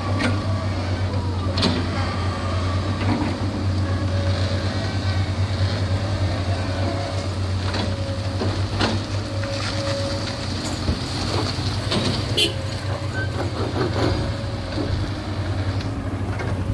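Heavy diesel construction machinery (excavators and dump trucks) running steadily, with occasional sharp knocks and clanks over a constant low hum.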